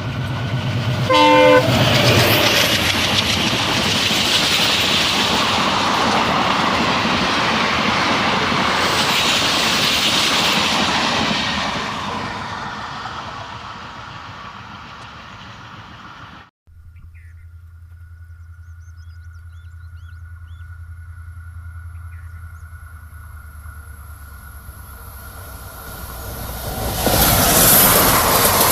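Passenger train running at speed, with a short horn blast about a second in and the loud rush of coaches and wheels on the track. The rush fades away, then drops abruptly to a quieter steady hum, and near the end the loud rush of a train rises again.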